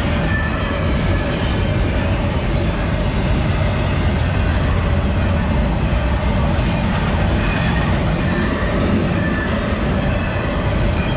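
BNSF freight train of empty intermodal well cars rolling past, a steady, unbroken rumble and rattle of wheels on rail with faint high tones coming and going.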